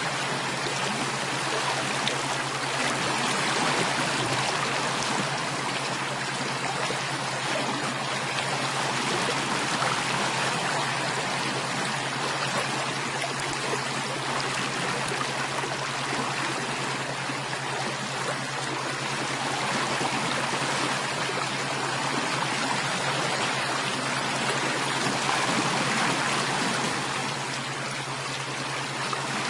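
Steady rushing and trickling of a flowing stream, swelling gently now and then, with a steady low hum underneath.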